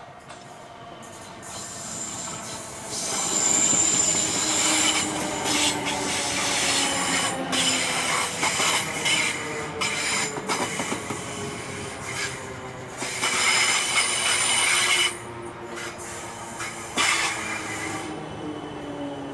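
A South Western Railway electric multiple-unit train running in and slowing, its electric motor whine falling slowly in pitch. A high-pitched wheel squeal comes about four seconds in, and there are scattered clicks from the wheels on the track.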